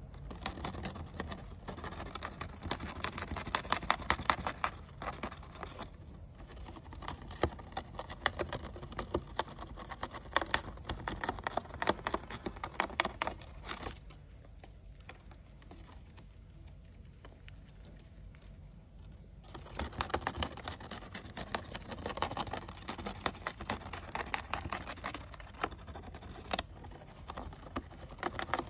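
Rapid, irregular clicking and tapping in two long runs, broken by a quieter pause of about five seconds near the middle.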